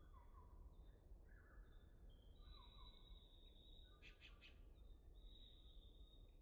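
Several songbirds singing faintly: long high thin whistles and short falling chirps overlap, with a quick stuttering trill about four seconds in. A low steady rumble of background noise lies underneath.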